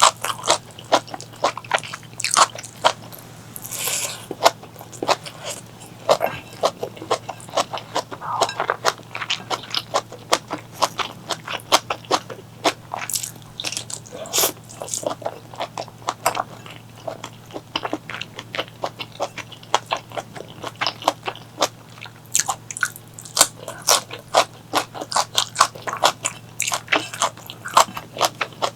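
Close-miked eating sounds from a meal of spicy squid curry and stir-fried chayote: biting and chewing with a rapid, irregular run of wet, crunchy clicks, several a second, over a faint steady low hum.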